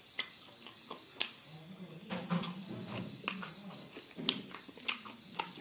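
Close-up mouth sounds of a person chewing meat he is eating with his fingers: irregular sharp smacking clicks, a few a second, with low mouth sounds in between.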